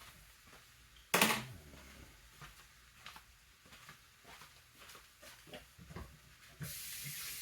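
Kitchen handling sounds: one sharp clatter about a second in, then scattered light clicks and knocks, and a tap starts running near the end.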